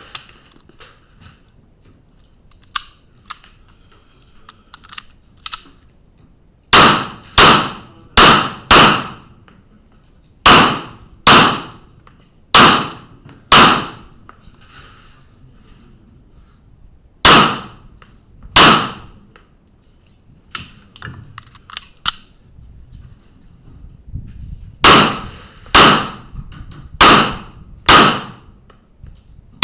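Pistol shots fired in quick pairs and strings during a timed practical-shooting stage run, with gaps of a few seconds between groups and faint clicks and knocks of movement between them. First a string of four, then several pairs, and a fast string of five near the end.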